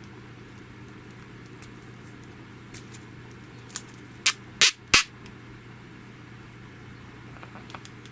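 Handling clicks and taps: about six short, sharp clicks, the loudest three close together about four to five seconds in, over a steady low hum.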